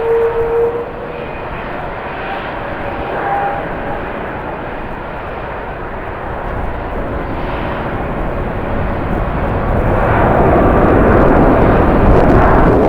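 Jet airliner engines: a steady whine rising slightly in pitch fades out about a second in, leaving a rushing noise that swells louder over the last few seconds.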